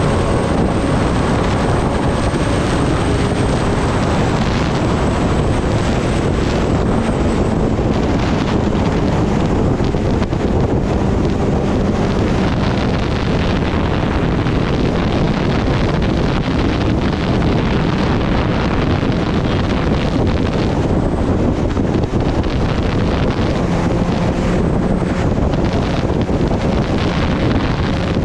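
Wind roaring over the microphone of a Kawasaki Ninja ZX-10R on the move, with the bike's inline-four engine running steadily beneath it.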